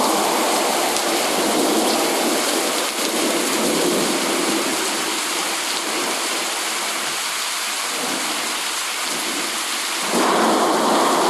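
Steady rain with a low rumble of thunder underneath; the rumble fades past the middle and swells again near the end.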